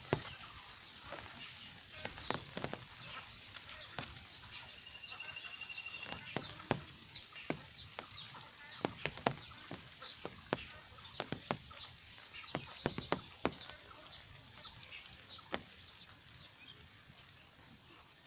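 Steady rain with many heavy drops dripping and tapping at irregular moments. A short, high trilled call sounds about five seconds in, and the drips thin out near the end.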